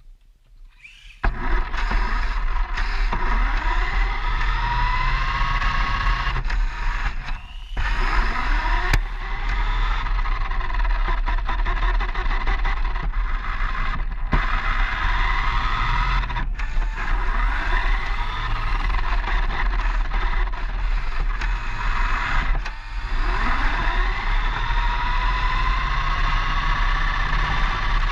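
Toy RC car's electric motor whining close up, its pitch rising and falling over and over as the throttle is worked, over a steady low rumble of the wheels, as heard from a camera mounted on the car. The sound drops out briefly twice.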